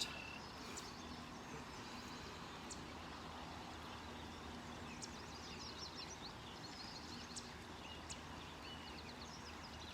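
Several birds chirping and trilling in short, high phrases over the steady rushing of a creek.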